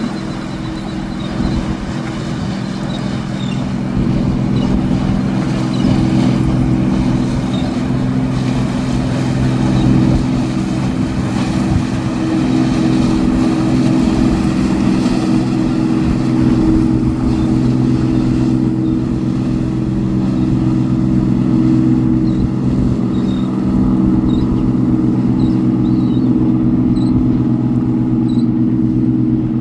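Boat engine running steadily under way, its even drone over the rush of wind and water, a little louder from about four seconds in.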